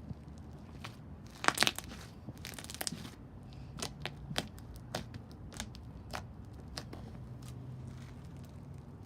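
Slime being squeezed and worked by hand, giving irregular sharp popping clicks and crackles. The loudest cluster of pops comes about one and a half seconds in, followed by scattered single clicks.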